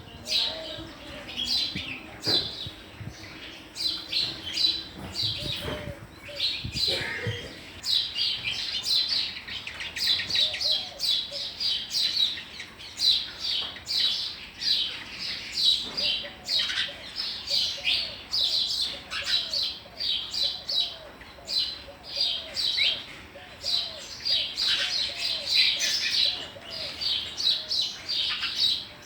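Sparrows chirping continuously, many short rapid chirps overlapping from several birds.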